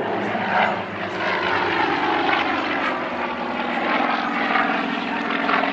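Two radial-engine aerobatic propeller planes flying an in-trail barrel roll, their engines giving a steady drone that swells and eases slightly.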